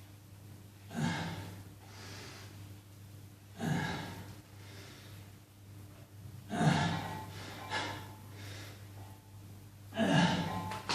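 A person breathing hard from exertion, with five loud, gasping breaths at irregular intervals of one to three seconds, over a steady low hum.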